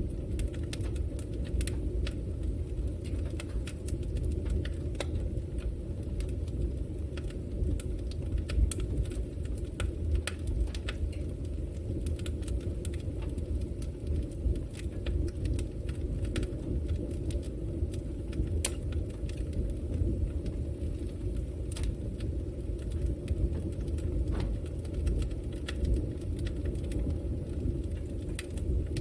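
Wood fire burning in a fireplace: a steady low rumble of the flames with frequent sharp crackles and pops scattered irregularly through it.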